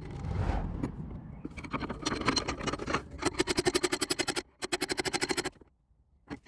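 Rapid bursts of hammer taps on steel car body panel, about ten blows a second with a metallic ring, pausing briefly and stopping shortly before the end.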